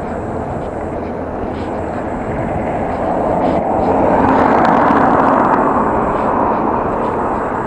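Wind and riding noise on the microphone of a camera carried on a moving bicycle, a steady rush that swells louder in the middle and eases off near the end.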